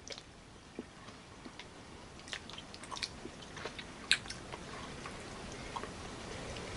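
Someone chewing a chewy, powder-coated bonbon: soft, irregular wet mouth clicks and smacks, the sharpest about four seconds in.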